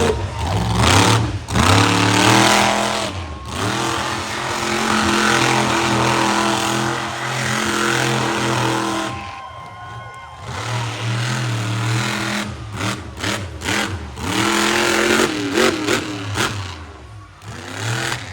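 Monster truck's supercharged V8 engine revving hard under full throttle, its pitch rising and falling, with brief throttle lifts. It eases off about nine seconds in, then comes back in a series of quick throttle blips and fades near the end.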